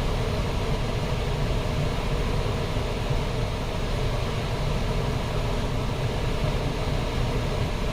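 Car A/C blower fan running steadily, blowing cold air from a freshly recharged system, over the low rumble of the Chrysler Sebring's 2.7 L V6 idling, heard from inside the closed cabin.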